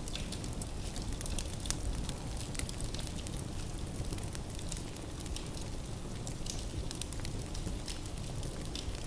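Wood fire burning in a fireplace: a steady low rush with frequent small irregular crackles and pops of the burning logs.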